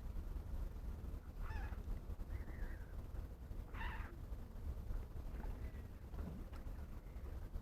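Wild birds on a pond calling: two short, honking calls about two and a half seconds apart, with a few fainter calls between and after, over a steady low rumble.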